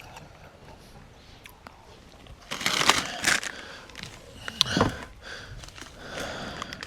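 Plastic bag crinkling and rustling as it is handled, in loud bursts about two and a half seconds in and again near five seconds.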